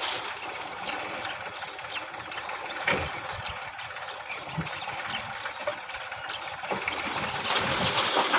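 Old Massey Ferguson 35 tractor engine running at idle, with scattered sharp clicks and clatters; the sound grows louder near the end.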